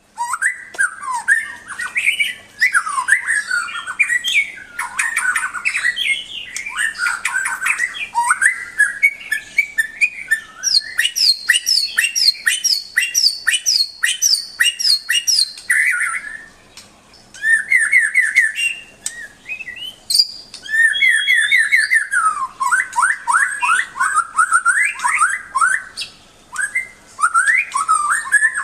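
White-rumped shama (murai batu) singing loudly: varied whistled phrases broken by fast runs of repeated notes, with a short pause partway through.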